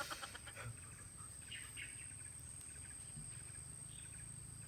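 Faint forest ambience: a thin, steady high-pitched insect drone with a few faint short bird chirps. A rapid pulsing sound dies away at the very start.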